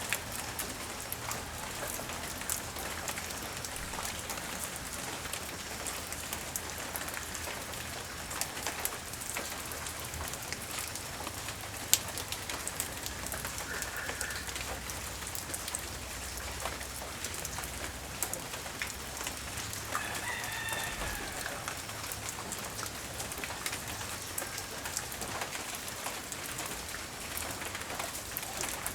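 Light rain falling steadily, with scattered drops ticking on hard surfaces and one sharp drip about twelve seconds in. A rooster crows once, a little over two-thirds of the way through.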